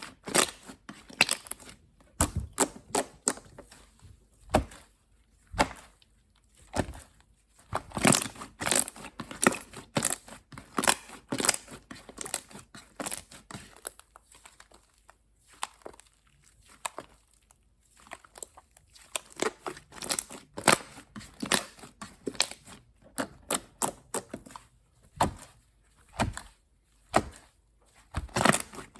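Plastic packaging being handled, crinkling and tearing in bursts of short crackles, with quieter gaps between them.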